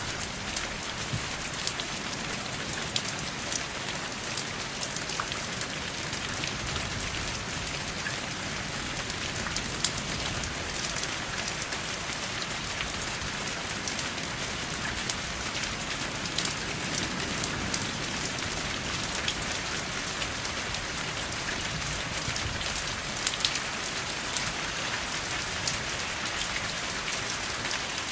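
Steady rain falling, an even hiss with many sharp ticks of individual drops hitting a surface; no thunder.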